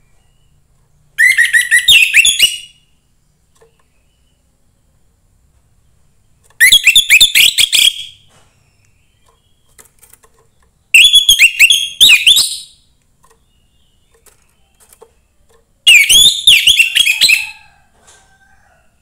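Orange-headed thrush singing: four loud phrases of quick, varied whistled notes, each about a second and a half long, separated by pauses of roughly three seconds.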